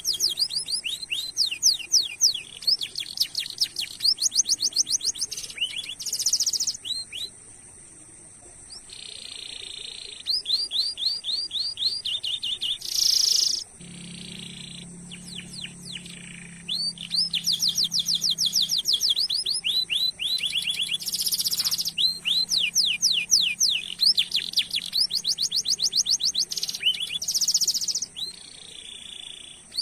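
Domestic canary singing a long song of fast repeated chirps and rolling trills, in phrases with a few buzzy notes and short breaks between them. A faint steady high tone and a faint low hum sit underneath.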